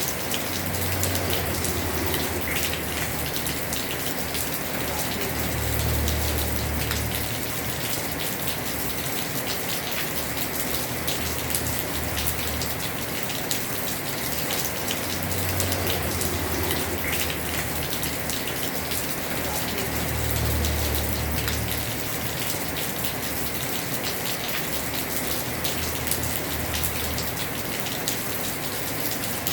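Heavy rain falling on a house roof: a steady hiss thick with individual drop ticks. A low rumble swells and fades several times underneath.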